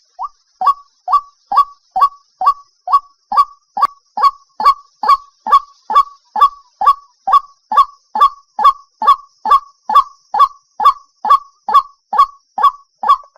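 White-breasted waterhen calling a steady, monotonous string of short falling notes, about two a second, evenly repeated: the bird's lure call.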